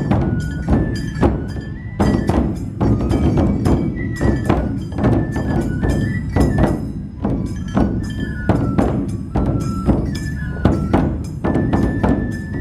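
Matsue dō-gyōretsu festival drumming: large dō drums beaten in a steady, driving rhythm under a high bamboo-flute melody that steps between a few held notes.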